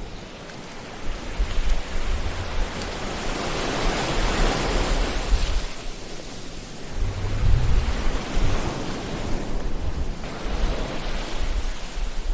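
Ocean waves surging and washing on a shore. The wash swells about four seconds in and again about eight seconds in, over a low rumble.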